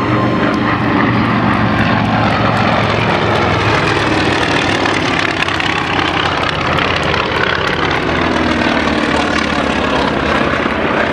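Piston engine of a propeller-driven World War II warbird droning steadily. Its pitch falls about two-thirds of the way through as the aircraft flies past.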